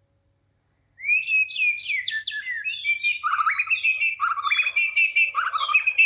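A songbird singing a rapid, varied run of chirps and whistled notes, starting about a second in.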